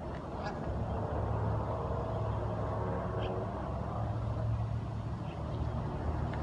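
Steady low engine rumble, like a passing motor vehicle, with two brief faint duck calls about half a second and about three seconds in.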